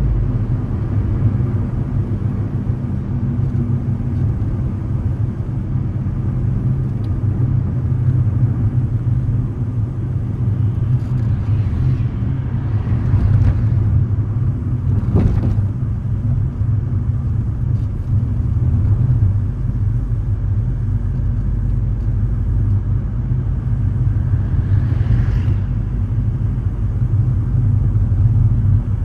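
Car on the move: a steady low engine and road rumble, with a sharp thump about halfway through and swells of louder passing noise around it and again near the end.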